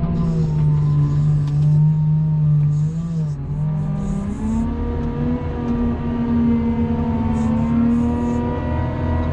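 Engine of a snow-plowing vehicle running steadily, then speeding up about three and a half seconds in and holding at the higher speed.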